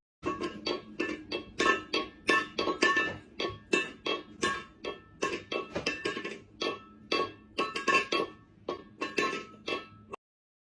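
A rapid, uneven series of light clinking strikes with a ringing, metallic tone, about three a second, cutting off abruptly near the end.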